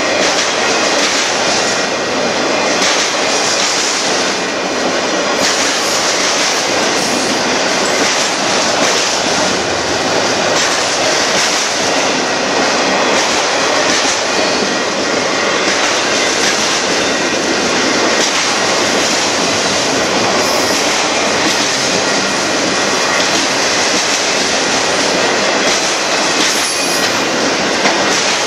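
Freight train of enclosed autorack cars rolling past at close range: a steady, loud rumble and rattle of steel wheels on the rails and of the cars' bodies.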